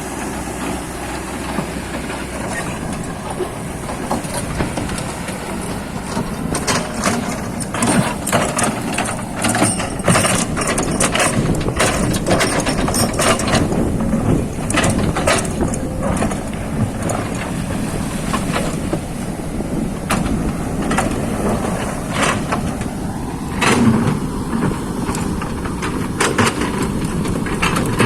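Excavator running steadily while working, with many sharp knocks and clatter from about six seconds in.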